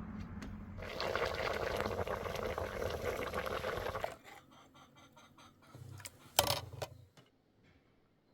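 Liquid pouring and splashing for about three seconds, starting about a second in, followed by quieter handling clatter and one sharp knock.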